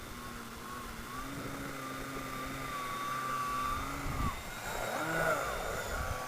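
Small electric RC helicopter in flight: a steady motor whine and rotor hum. About two-thirds through, the pitch drops, then wavers up and down.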